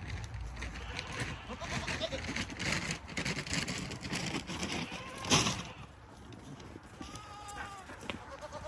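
Nubian goats bleating: one loud, short bleat about halfway through and a fainter, higher call near the end, over a busy patter of small knocks and rustles.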